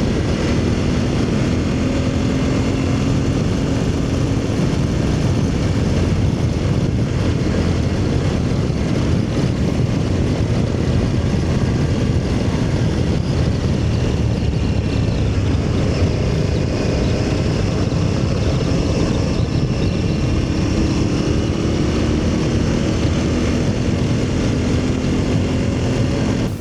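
Aprilia Tuareg motorcycle riding along under steady wind rush, its engine drone rising and falling slowly in pitch with the throttle.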